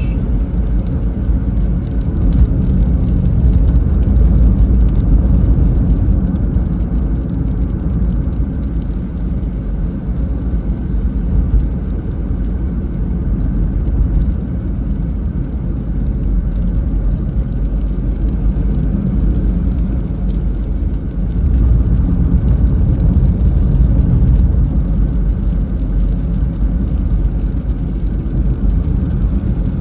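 Car driving on a wet road in the rain: a steady low rumble of road and engine noise with a fainter hiss of tyres and rain above it, swelling a little now and then.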